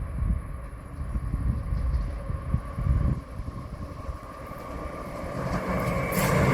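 A train approaching along the line, growing steadily louder from about five seconds in, with wheel-on-rail clatter starting near the end. Before that, wind rumbles on the microphone.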